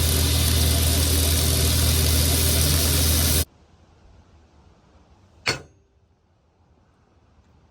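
A machine runs steadily, a low motor hum under a loud hiss, then cuts off suddenly about three and a half seconds in. A single sharp click follows about two seconds later.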